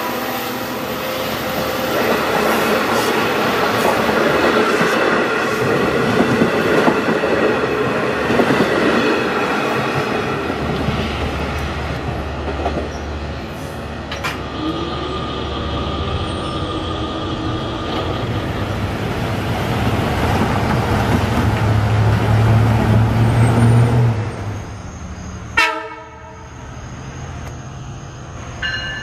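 Long Island Rail Road diesel train at the station, its horn sounding over the rumble and clatter of wheels on rails. In the second half a low engine drone builds, and near the end there is a single sharp knock.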